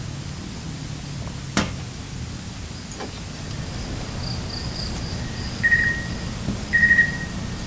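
Outdoor campsite ambience: a steady background hiss with a sharp click about one and a half seconds in, and two short high chirps near the end.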